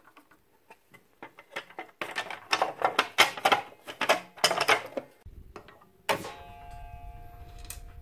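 Saw parts and hand tools handled during reassembly: a run of clicks and clatters, then a sharp metallic knock about six seconds in that keeps ringing.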